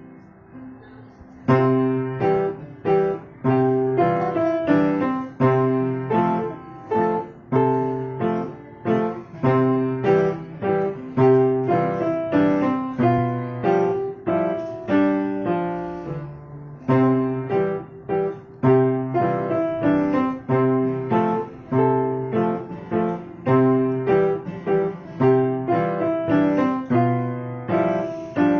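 Piano played by a kindergarten-age beginner: a simple melody of clear, even notes over a plain bass accompaniment. The notes begin about a second and a half in, with a brief pause about halfway through.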